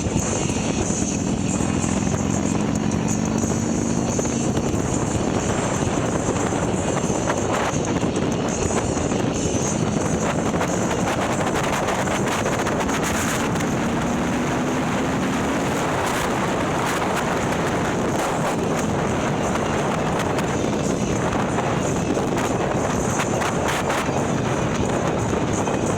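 Harley-Davidson Milwaukee-Eight V-twin, bored out to 130ci and breathing through a ThunderHeader exhaust, running on the road under heavy wind rush. Its pitch rises twice as the bike pulls up through the revs.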